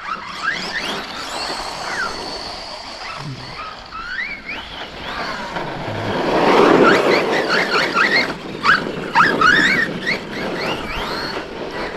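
Electric RC trucks' brushless motors whining up and down in quick rising and falling revs as they are driven hard. A louder rush sits about six to eight seconds in.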